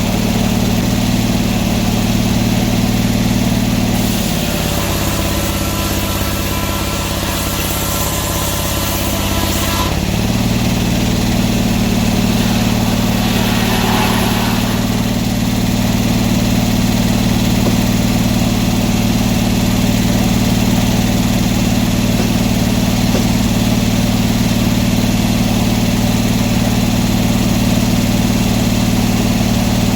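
Sawmill engine running steadily. From about 4 s in to about 10 s in its note changes, with added high hiss, then it settles back to the same steady running.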